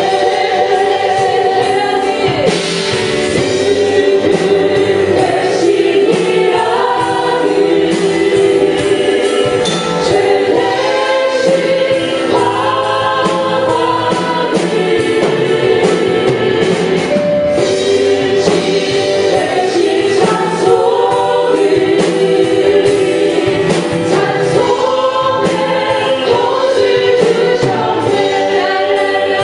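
A praise team and congregation singing a contemporary Korean worship song together with a full band accompaniment, steady and loud.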